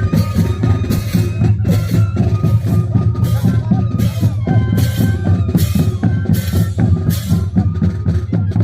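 A moseñada band, Andean wooden duct flutes in a massed troupe, playing held, reedy melody lines over a steady drum beat.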